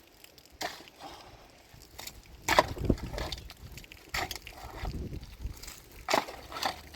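A series of irregular knocks and clunks, about half a dozen, with some low rumbling between them.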